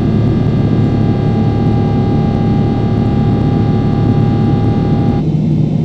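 Steady, loud cabin noise of a Boeing 777-300ER in flight: jet engine and airflow noise with several steady tones on top, which cut off abruptly about five seconds in, leaving a lower hum.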